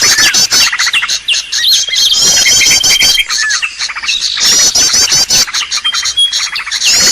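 Bird-lure recording (suara pikat) of loud bird calls: a long steady whistle, rapid chirps and groups of fast, quickly repeated trill notes. The same phrase comes round about every two and a half seconds, as in a looped lure track.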